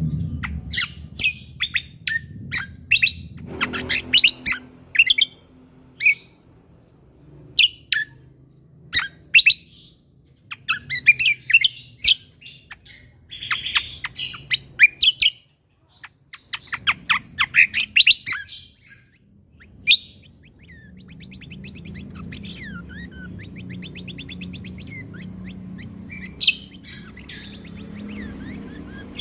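Cucak kombo singing a loud, varied song of sharp chirps and quick whistled glides in rapid bunches. About two-thirds of the way through it breaks into a long, fast rattling trill. A faint low hum sits under it.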